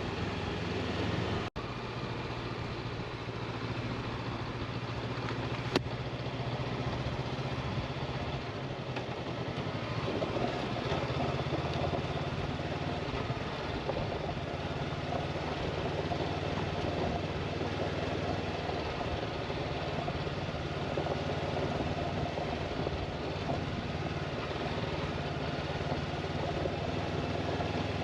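Motorcycle engine running at a low, steady pace with road and wind noise around it. The sound cuts out for an instant about a second and a half in, and there is one sharp click near six seconds.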